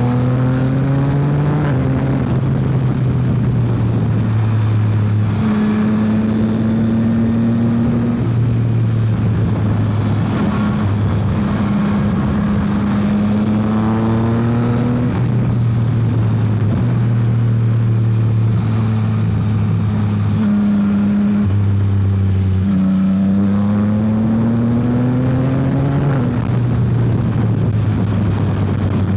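Yamaha XSR900's inline three-cylinder engine under way at speed, its pitch climbing and then stepping down several times as it is worked through the gears and eased off, over a steady rush of wind.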